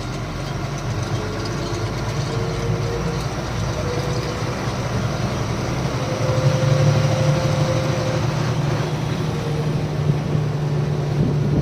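Loaded diesel truck's engine running steadily while driving, with road noise; the engine hum grows a little louder about six seconds in.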